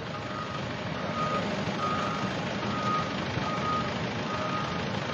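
Vehicle reversing alarm beeping in an even rhythm, a little more than once a second, over the low rumble of heavy vehicle engines.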